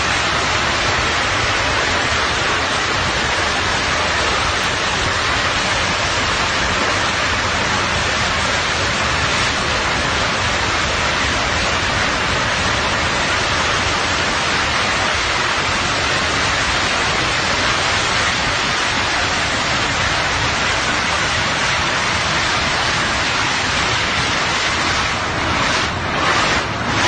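Loud, steady rushing roar with no distinct tones, even throughout, breaking into a few uneven surges near the end.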